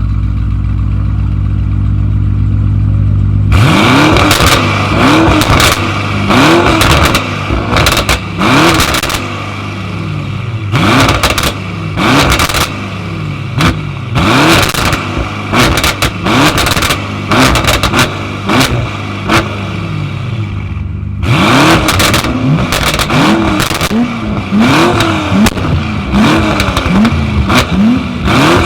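Tuned car engine idling, then revved in quick repeated blips from about three and a half seconds in, with sharp pops and crackles from the exhaust between revs. After a short dip about two-thirds of the way through, the blipping starts again.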